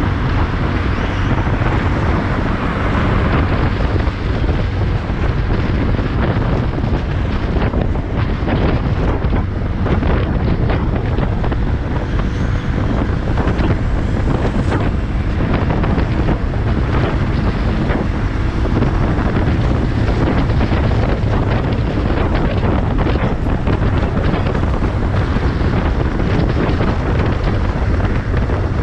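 Wind rushing over the microphone while riding a motorcycle at highway speed, with a steady low hum of engine and road noise underneath.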